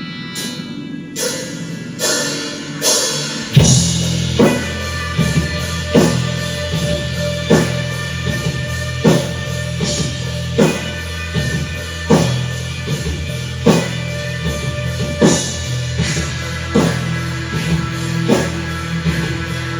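Live rock band starting a song: sustained guitar tones, then drum strikes come in, and about three and a half seconds in the bass and full kit join, with heavy hits about every second and a half.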